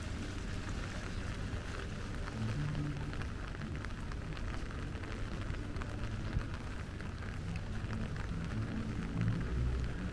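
Steady rain falling, with many small, sharp drop ticks scattered over a continuous low rumble.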